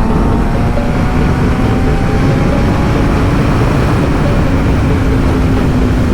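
Wind rushing over a helmet microphone at highway speed, with the Yamaha FZ-07's parallel-twin engine running steadily under it.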